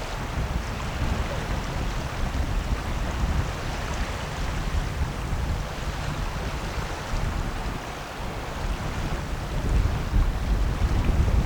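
Wind buffeting the microphone: an uneven low rumble under a steady hiss, growing gustier and louder near the end.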